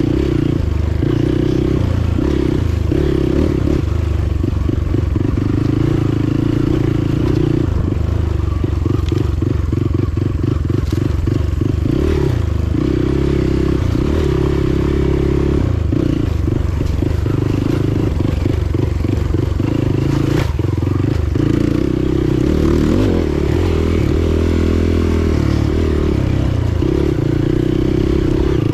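Motorcycle engine running on the move, its pitch shifting up and down with the throttle over steady road and wind noise.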